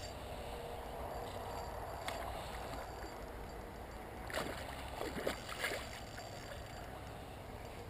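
Steady flow of river water, with a quick cluster of splashes about halfway through from a hooked northern pike thrashing at the surface.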